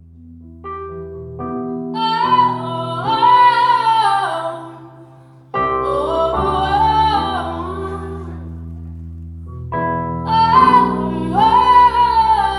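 Live female vocalist singing three slow, drawn-out phrases over sustained keyboard chords.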